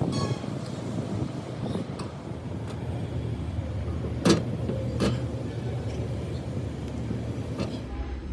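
An engine running steadily at a low pitch, with a few sharp metallic knocks and clicks over it; the loudest knock comes about four seconds in.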